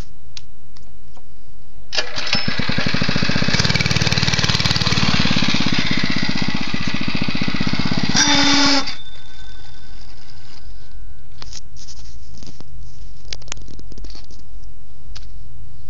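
Motovox mini bike's small engine running low, then revved hard for about seven seconds from around two seconds in, with a fast firing beat, before dropping back to a low idle.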